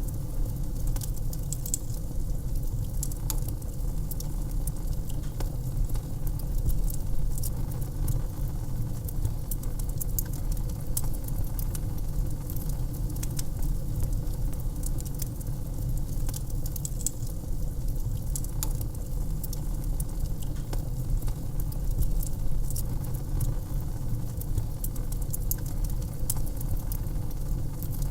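Wood fire burning in a fireplace, crackling with frequent sharp pops and snaps at irregular intervals over a steady low rumble of the flames.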